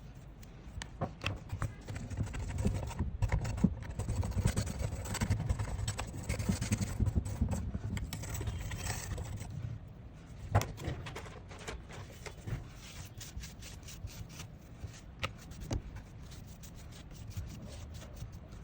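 A ruler's edge scraping cured UV resin off a resin tray in rapid, rough strokes. The scraping thins out about halfway, leaving scattered clicks and taps.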